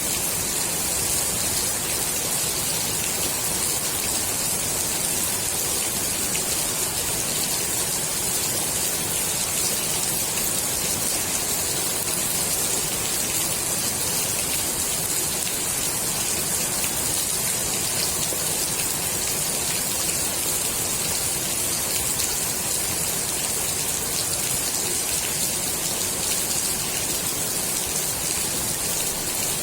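Steady rain falling on the water of a swimming pool, an even hiss of many small drops splashing on the surface.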